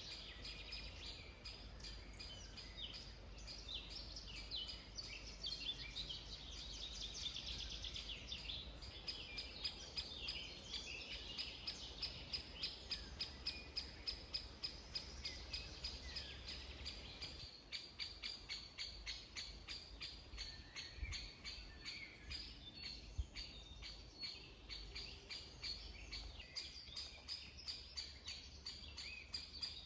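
Several small birds singing and calling together, with fast runs of high repeated chirps through much of the time.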